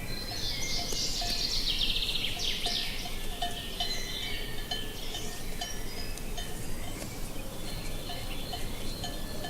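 Songbirds singing, loudest in a fast trill lasting about two seconds near the start, over the irregular clank of cattle bells and a low wind rumble.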